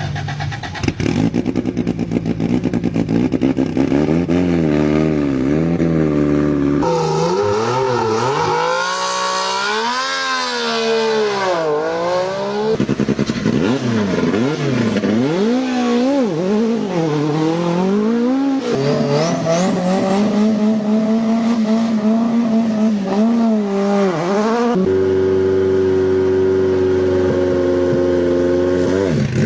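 Group B rally car engines revving hard in a series of clips, the engine note climbing and falling repeatedly, with abrupt changes of car about seven, thirteen and twenty-five seconds in; near the end one engine holds a steadier high note.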